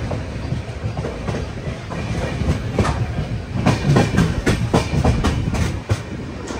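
Indian Railways passenger train running, its coach wheels rumbling and clattering over the rail joints, heard from an open coach doorway. The clatter comes as a dense run of irregular knocks, loudest in the middle.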